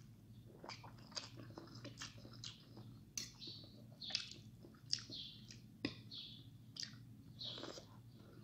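Close-up chewing of a mouthful of Indomie instant noodles, with irregular short wet clicks and smacks of the mouth every half second or so.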